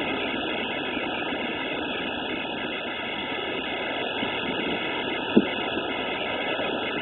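Steady rush of hurricane wind picked up by a mobile phone's microphone, with one short knock about five and a half seconds in.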